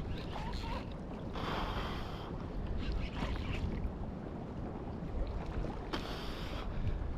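Wind buffeting the microphone over water lapping against a kayak, with two brief splashy rushes about a second and a half in and again about six seconds in.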